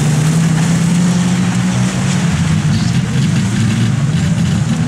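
Engines of several demolition derby cars running and revving together, a loud steady drone.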